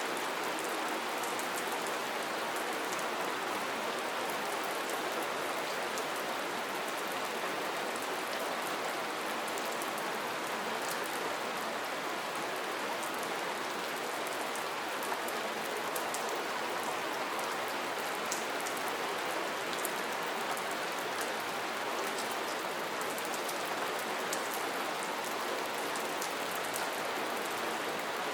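Steady rain falling, an even patter with many small drop ticks and no change in strength.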